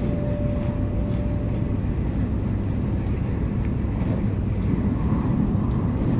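Steady low rumble of a Shinkansen train running at speed, heard inside the passenger cabin. The last tone of a chime dies away in the first couple of seconds.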